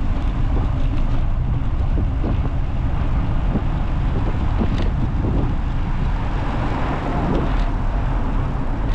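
Steady wind rumble on the microphone with road traffic noise, as heard while riding.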